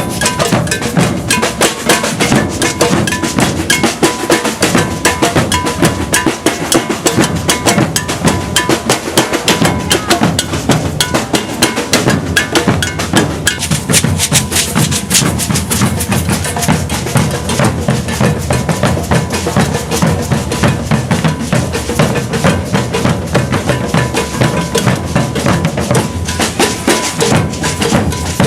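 Maracatu de baque virado percussion ensemble playing continuously: deep alfaia bass drums and snare drums in a dense, driving rhythm, with a metal bell on top.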